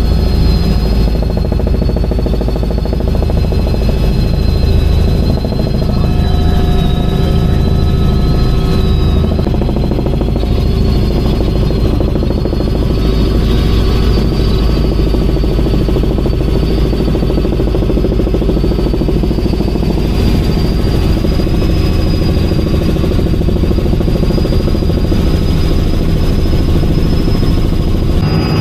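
Helicopter in flight, heard from inside the cabin: a steady, loud rotor and engine drone with a thin high whine that wavers slightly in pitch.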